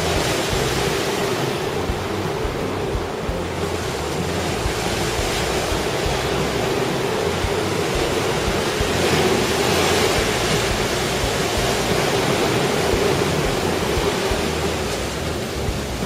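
Heavy typhoon surf churning and breaking, with wind. The wash of water grows louder about nine seconds in.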